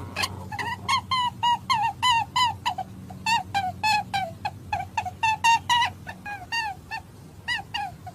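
Several birds giving rapid, short, repeated calls, about three a second and each dipping slightly in pitch, over a steady low hum.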